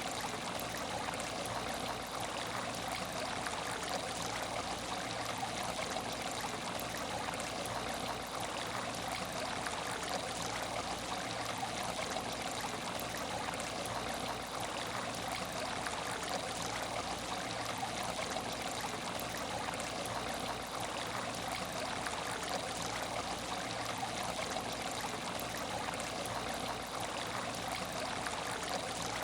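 Water in an aquarium tank, running and trickling steadily like a small stream, with no change in the flow.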